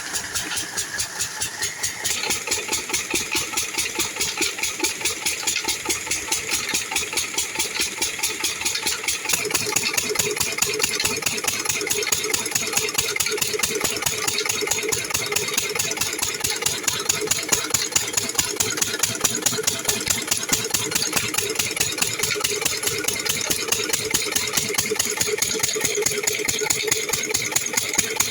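Engine of a field-irrigation water pump running steadily, its firing strokes making an even, rapid beat; it gets slightly louder about nine seconds in.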